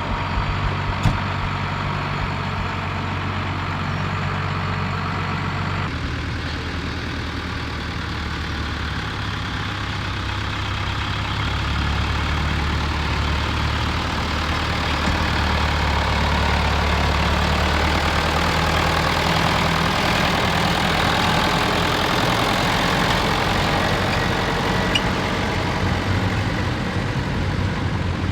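Diesel engine of a big Ford six-cylinder tractor running at low speed. Its note changes abruptly about six seconds in, then grows louder toward the middle.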